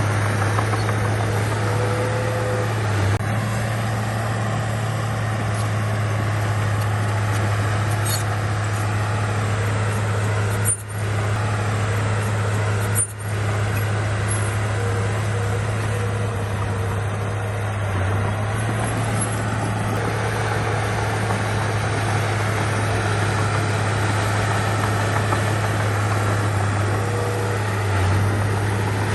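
Heavy diesel engine of a bulldozer running steadily, a deep constant drone. It cuts out briefly twice around the middle.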